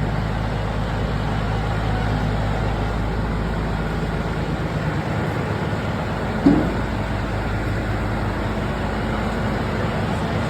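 Truck engine running steadily, with a brief squeak about six and a half seconds in.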